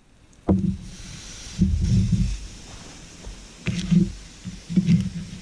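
Canoe paddle strokes in the water, about one a second, each a low swirl and splash, some starting with a light knock.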